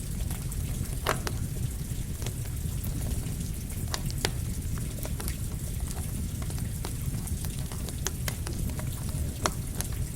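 Campfire crackling, with sharp irregular pops and snaps over a steady low rumble, mixed with the even hiss of rain.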